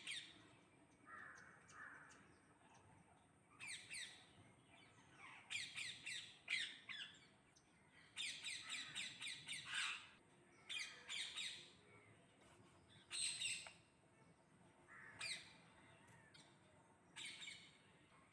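Parrots squawking: harsh, high calls in short bursts and clusters every second or two, with brief pauses between.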